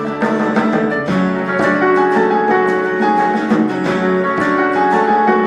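Instrumental passage of a song, led by plucked and strummed guitar, between sung verses.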